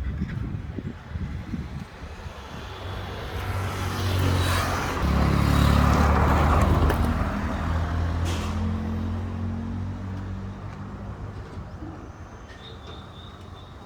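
A motor vehicle's engine passing close by: it builds up over a few seconds, is loudest around the middle, then slowly fades away.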